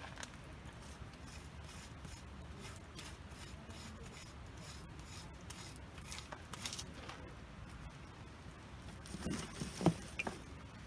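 Campfire crackling faintly with scattered small pops, and a brief louder knock about nine to ten seconds in.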